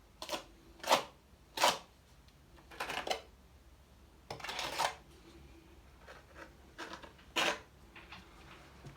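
A tiling trowel scraping flexible tile adhesive, in a series of short separate strokes, the loudest two close together about a second in.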